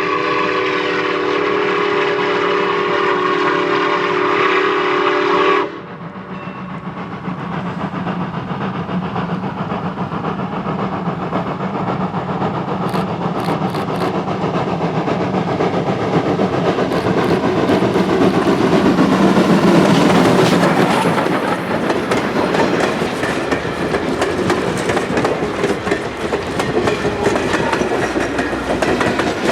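A steam locomotive's whistle sounds one long, steady, multi-note chord, which cuts off sharply about six seconds in. It is followed by the steam train passing, with wheel and rail clatter that builds to its loudest about two-thirds of the way through.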